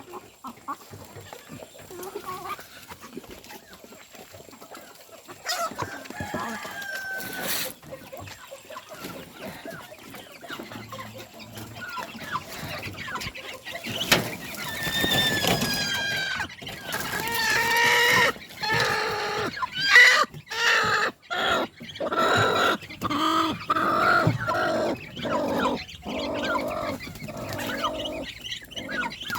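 Chickens clucking and calling, sparse at first and then a busy, louder run of repeated calls from about halfway in.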